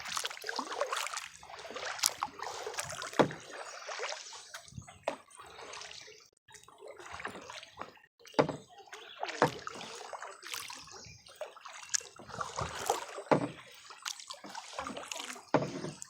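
Kayak paddle strokes: water splashing and dripping off the paddle blades, with sharp knocks about every second or so.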